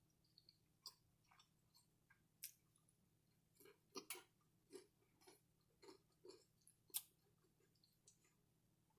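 Faint, close-miked chewing: irregular soft wet clicks and mouth smacks of someone eating, with a few sharper ones about four and seven seconds in.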